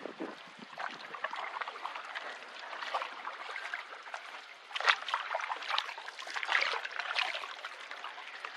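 Water splashing and trickling around a canoe, with sharper splashes about five and six and a half seconds in.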